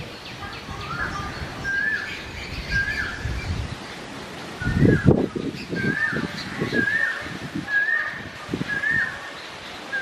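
A bird repeating a short, hooked call note over and over, roughly once a second, with a few low rumbling bursts partway through.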